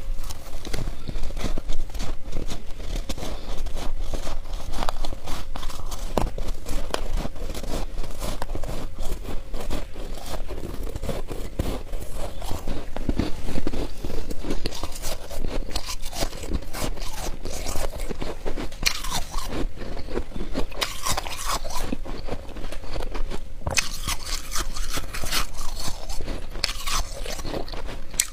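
A person biting and chewing ice close to the microphone: a continuous run of irregular crunches and crackles of ice breaking between the teeth.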